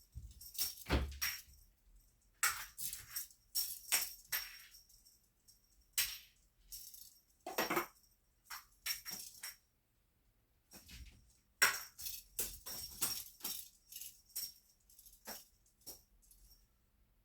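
A cat teaser wand toy shaken and swished in irregular bursts, jingling and rattling.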